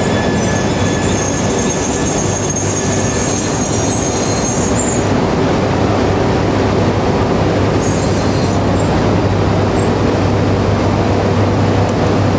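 E2 and E3 series Shinkansen train arriving at the platform, a loud steady rumble with high-pitched wheel and brake squeal that fades about five seconds in and comes back briefly near eight seconds.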